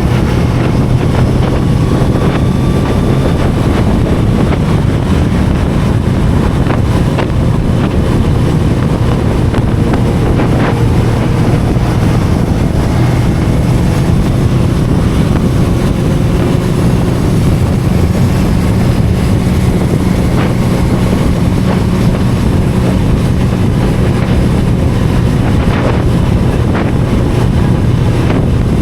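Inline-four sport-bike engine running at a steady cruise, heard under heavy wind noise on the microphone.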